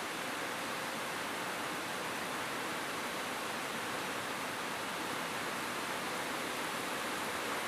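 Steady rain falling on a roof, a constant even hiss with no separate drops or thunder standing out.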